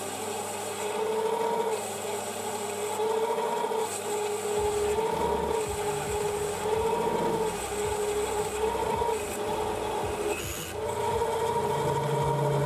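3D printer's stepper motors whining as the print head moves, a two-note hum that stops and starts about once a second with each move.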